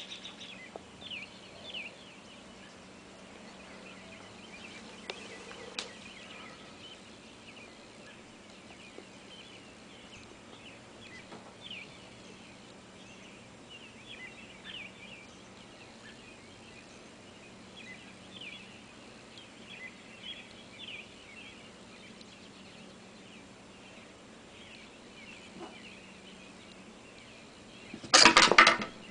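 Many small birds chirping, with short, quick downward chirps overlapping throughout over a faint steady hum. Near the end, a loud burst of noise lasting about a second.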